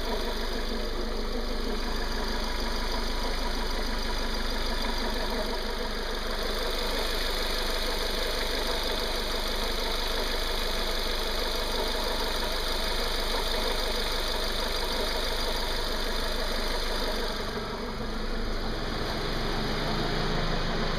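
Renault Duster 2.0's four-cylinder engine running steadily at idle, with the strange noise its owner is recording. The sound dips briefly about three-quarters of the way through.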